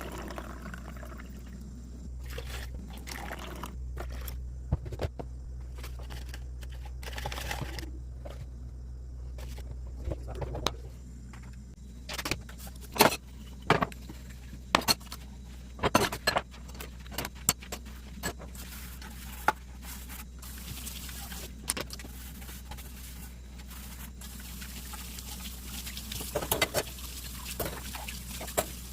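Dishes and utensils clinking and knocking against each other, with a tap running at times, over a steady low hum.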